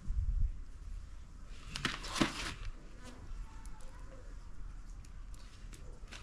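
A buzzing insect, such as a fly, close to the microphone. A short rustle comes about two seconds in.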